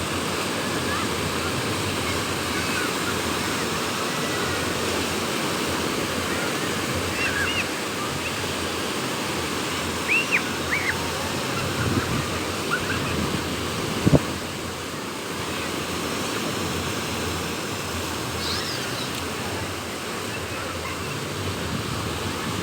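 Sea waves washing onto the shore with wind, a continuous rushing. A few short high chirps come in the middle, and there is one sharp knock about two-thirds of the way through.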